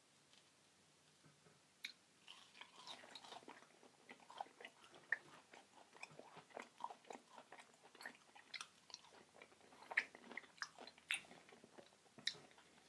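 Close-miked eating: a person biting and chewing food, with many small, irregular wet mouth clicks and crackles starting about two seconds in.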